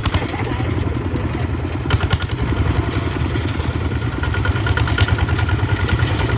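Tractor engine running steadily with a fast, even pulse, and a few sharp clattering knocks over it, about two and five seconds in.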